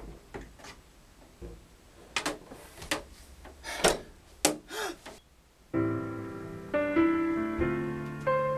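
A few scattered knocks and short noises, then a little under six seconds in piano music begins: held chords with a melody over a bass line.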